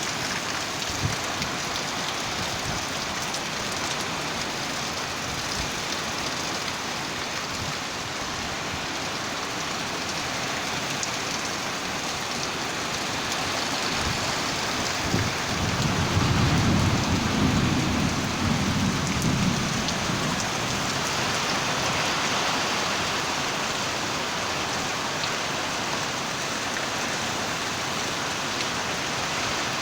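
Heavy storm rain falling steadily. About halfway through, a low rumble of thunder rolls for a few seconds.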